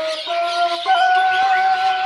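Caged pet birds chirping densely, mixed with background music whose long held notes step up in pitch about a second in.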